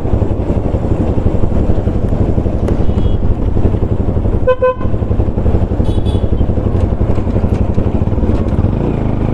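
Motorcycle on the move, with steady engine and road noise. A vehicle horn honks once, briefly, about four and a half seconds in.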